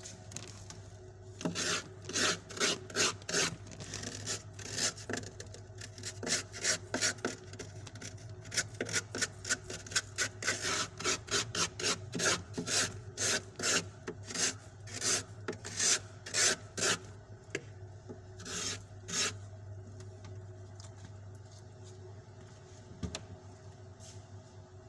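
Knife blade scraping soft, freshly formed frost off a fridge's freezer wall in quick repeated strokes, about two a second, stopping about two-thirds of the way through after a last pair of strokes. A steady low hum runs underneath.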